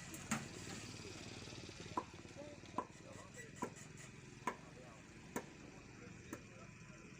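A series of seven sharp knocks, evenly spaced about once a second, some with a short ring, over faint background voices.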